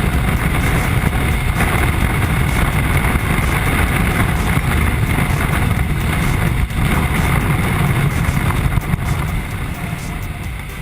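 Ducati Multistrada motorcycle being ridden: engine running under a steady rush of wind noise, getting a little quieter near the end.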